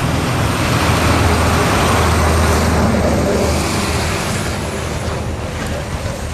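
C2 narrow-gauge steam locomotive and its train running past: a loud, steady rumble and hiss that swells about two seconds in and then eases off.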